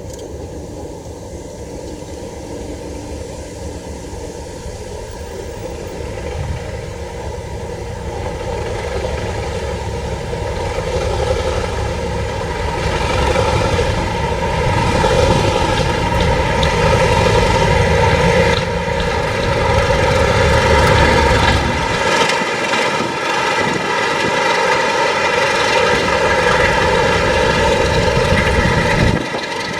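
Diesel locomotive engine droning at a steady pitch, growing steadily louder as the locomotive approaches and runs past, then dropping away sharply near the end.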